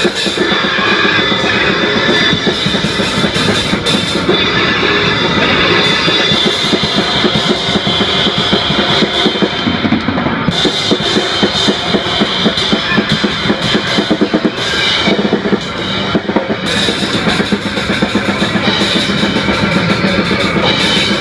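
Live noise-rock band playing loudly: fast, dense drumming on a drum kit with cymbals under a continuous wall of noisy band sound.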